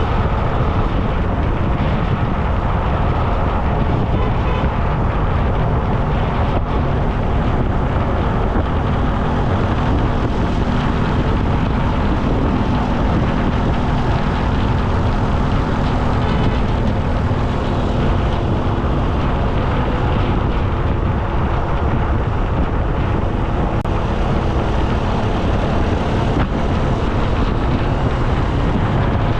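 Steady road noise heard while riding: a constant low rush of wind and traffic, with a faint low engine hum through the middle.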